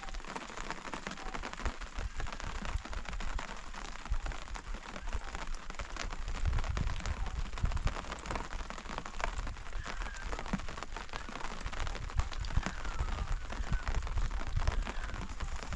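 Steady rain falling, a continuous hiss dotted with many small sharp drop ticks, with uneven low rumbling underneath.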